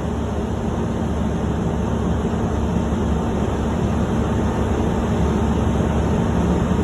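Heavy truck engine running steadily, a low, even drone.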